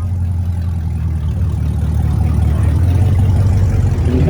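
A car engine running with a steady low drone that grows gradually louder.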